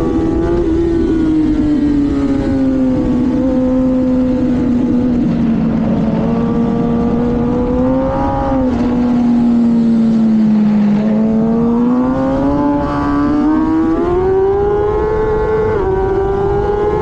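2024 Kawasaki ZX-10R's inline-four engine running hard, heard onboard with wind rushing over the microphone. The pitch falls steadily through the middle as the bike slows, with a brief jump about halfway, then climbs again from about two-thirds in as it accelerates, stepping in pitch near the end.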